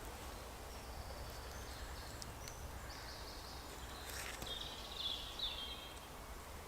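Quiet woodland ambience: a steady low rumble with faint, short high bird chirps through the middle and a couple of soft clicks.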